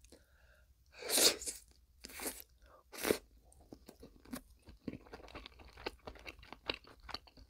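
Close-miked chewing of mackerel sashimi: three louder bursts of mouth noise in the first three seconds, then a run of soft smacking clicks as the chewing goes on.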